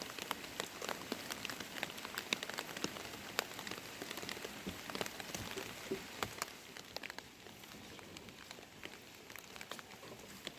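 Rain falling: a steady hiss with many separate drops ticking, easing slightly after about seven seconds.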